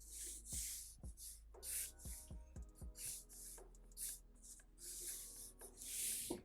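Pencil drawing on paper: a quick run of short, scratchy strokes sketching fold lines.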